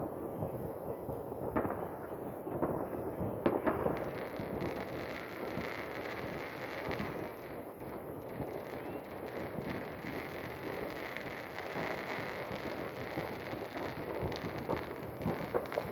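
Many fireworks going off at once: near-continuous popping and crackling, with a few sharper, louder bangs in the first few seconds.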